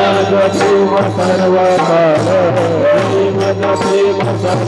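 Marathi devotional bhajan: voices holding long sung notes over a steady percussion beat.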